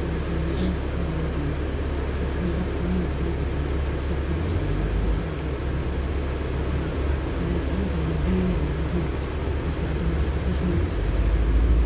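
Steady low engine and road rumble inside a LiAZ-6213.65 articulated city bus as it runs. The engine note shifts about four seconds in and grows louder near the end.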